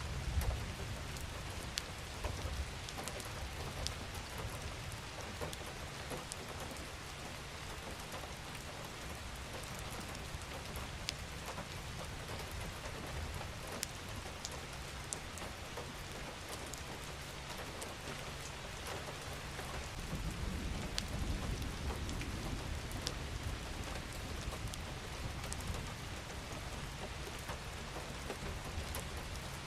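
Steady rain falling, with single drops tapping close by. A low rumble of distant thunder swells at the start and again from about twenty seconds in.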